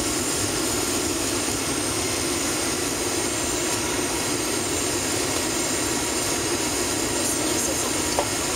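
Steady drone of a Boeing 757-300's jet engines and rushing air, heard from inside the passenger cabin, with a small click near the end.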